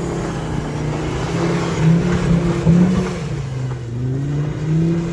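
A car engine revving, its pitch rising and falling several times as the throttle is worked.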